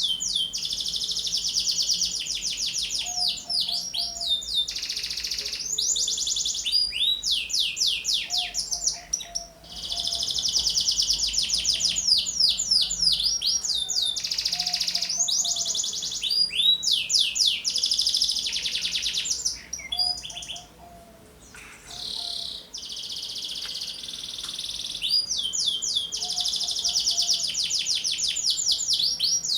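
Domestic canary singing hard: long phrases of fast, rolling trills and quick sweeping notes, with a short break about two-thirds of the way through.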